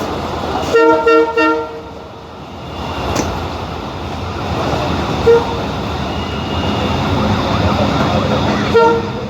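Train horn sounding three quick toots about a second in, a short blip in the middle and another toot near the end, over the steady rumble of the train running.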